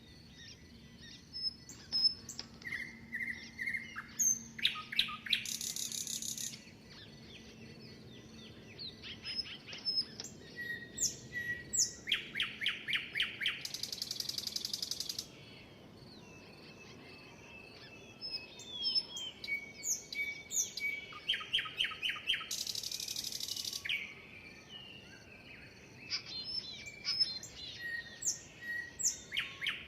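Several songbirds singing and chirping together, with whistled notes and fast trills overlapping. One song recurs three times: a run of rapid repeated notes followed by a high buzzy phrase lasting about a second.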